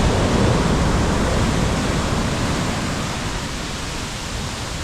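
Heavy ocean surf: a wave breaking and its foamy wash rushing up the beach, loudest at first and slowly fading.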